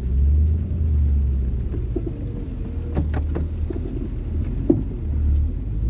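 Four-wheel-drive truck engine running with a steady low rumble while the truck reverses, with a few sharp clicks or knocks in the middle.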